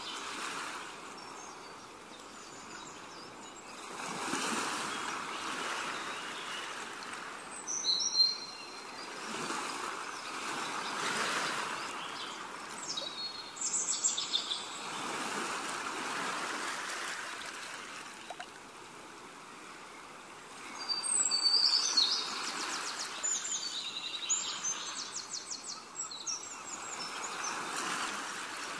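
Small birds chirping, with a quick trill about three-quarters of the way through, over a rushing hiss that swells and fades every few seconds.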